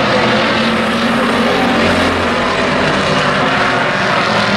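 Several race trucks' engines running together on a speedway during a heat race, a loud, steady blended engine noise.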